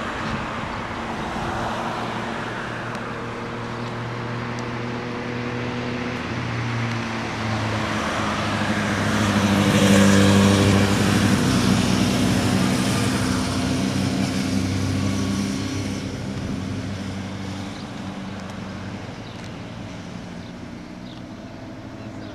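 A motor vehicle's engine running as it passes, growing louder to a peak about halfway through and then fading away.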